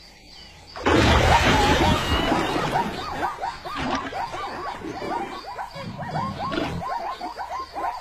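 Animals calling: a rapid string of short calls that rise and fall in pitch, a few each second, over a noisy background, starting suddenly about a second in.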